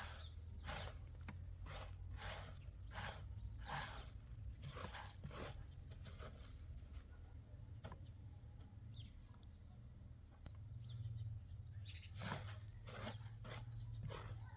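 Crunching footsteps at about two a second, stopping in the middle and starting again near the end, over a steady low hum.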